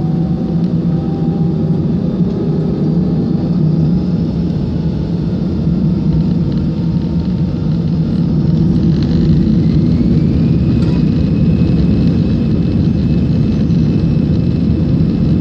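Airbus A319 cabin noise in the climb after takeoff: a loud, steady jet-engine and airflow rumble, with faint tones slowly rising in pitch. It grows a little louder about eight seconds in.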